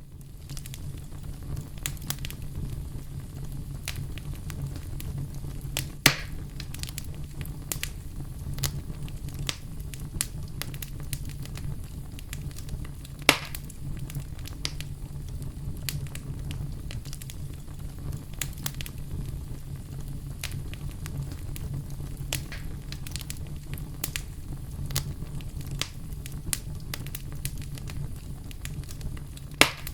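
Bonfire burning with a steady low rumble and frequent small crackles, with three louder pops: about six seconds in, about thirteen seconds in, and near the end.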